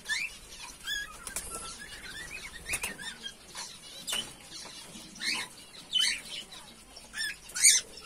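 Cage birds chirping in short, scattered calls, a few louder ones toward the end, over faint rustling of hands mixing crumbly egg food in a steel plate.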